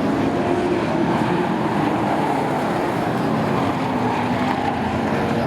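Short-track race trucks' engines running on the oval, a steady loud drone with engine tones that shift slightly in pitch.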